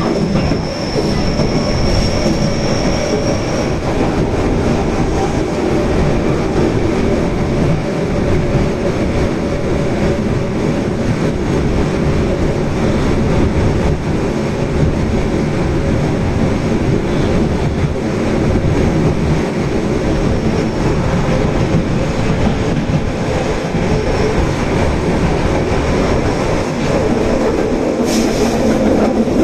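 Osaka Metro Tanimachi Line subway train running at speed between stations, a steady rumble of wheels and motors on the rails. A faint high squeal is heard in the first few seconds, and there is a short hissing rush near the end.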